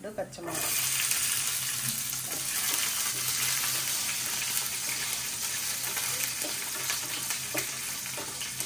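Shallots and garlic dropped into hot oil with whole spices, sizzling loudly: the sizzle starts suddenly about half a second in and then runs steadily, with a few light knocks of stirring. This is the spices being fried for a sambar's roasted-coconut masala.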